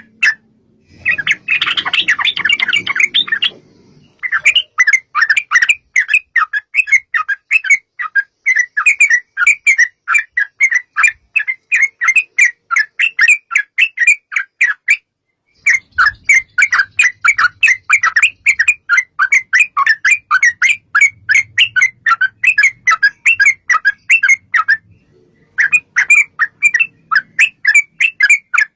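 Yellow-vented bulbul (trucukan) song: long runs of short chirping notes, about three a second, with a harsh chattering burst about a second in and two brief pauses later on.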